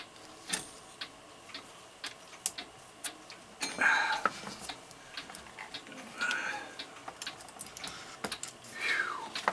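Antique Florenz Kroeber alarm clock movement ticking at about two beats a second, with a few louder knocks and scrapes from the movement being handled on the bench.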